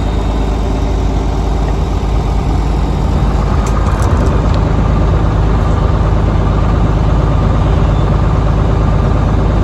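A vehicle engine idling steadily, getting slightly louder about three seconds in.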